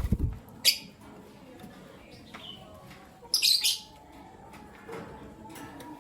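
Pet lovebirds giving a few short, sharp chirps, the loudest a harsh shriek about three and a half seconds in. A low thump at the very start.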